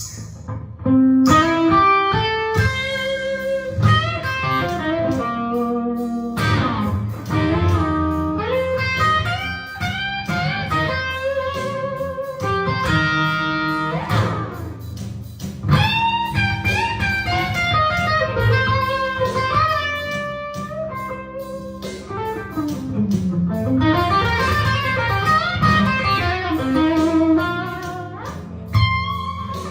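Electric guitar playing a blues lead, with notes bent and slid up and down over a steady low accompaniment.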